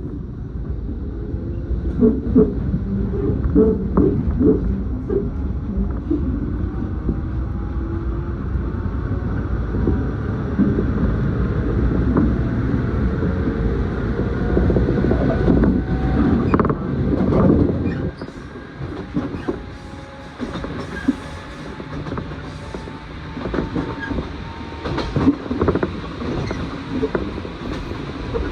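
Electric train heard from inside the car, pulling away after a station stop: the motor whine rises in pitch over the first few seconds, with a steady rumble and wheels clicking over rail joints. About eighteen seconds in the sound drops as the train eases off and coasts.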